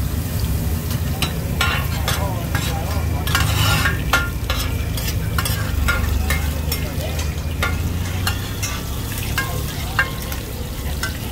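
Hoi tod, a batter of mussels and egg, sizzling as it fries in oil on a pan. A spatula scrapes and clinks against the pan many times. A steady low hum runs underneath.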